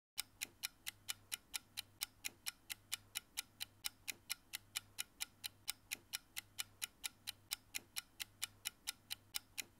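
Clock-ticking sound effect for a quiz countdown timer: sharp, evenly spaced ticks, about four a second, over a faint low hum.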